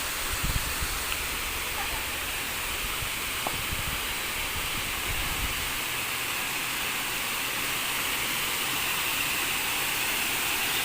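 Steady rushing of a waterfall, an even hissing wash of falling water. A low rumble underneath drops away about halfway through.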